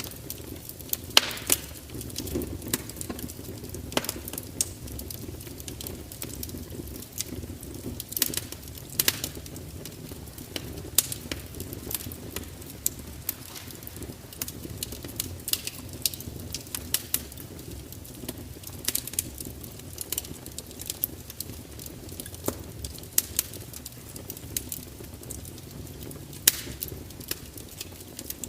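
Wood fire crackling steadily, with irregular sharp pops and snaps over a low, even rumble of flames.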